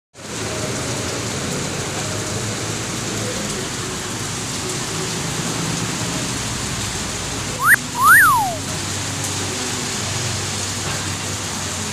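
Steady rain falling. About eight seconds in, a loud two-note whistle cuts through, a wolf whistle: a quick rising note, then a longer one that rises and falls.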